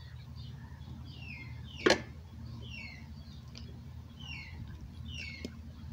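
Small bird calling in repeated short descending chirps over a low steady hum. About two seconds in there is one sharp click, with a lighter one near the end, from pliers working the oil filler cap on a motorcycle engine case.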